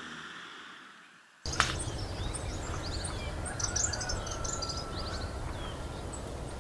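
Sound fading down, then cutting in about a second and a half in to outdoor ambience: many small birds chirping and trilling in short high calls over a steady low rumble and hiss.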